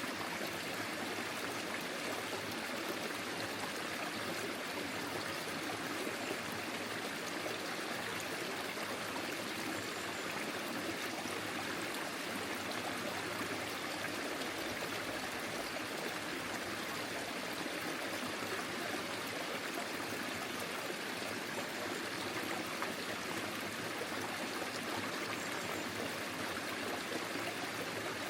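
Forest stream flowing, a steady rush and trickle of water.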